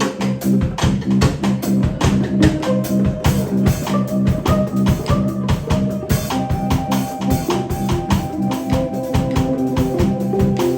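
Live band jamming without vocals: a drum kit keeps a steady beat under guitar, and more held notes join about six seconds in.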